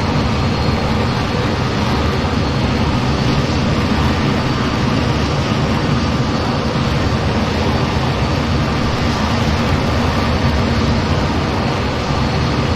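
Steady, unchanging noise of an F-15 fighter jet's engines and airflow, heavy in the low range, with a faint high whine running through it.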